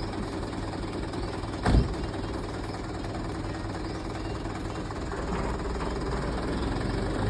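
Truck engine running steadily with a low rumble, a single loud thump about two seconds in, and the engine growing slightly louder near the end.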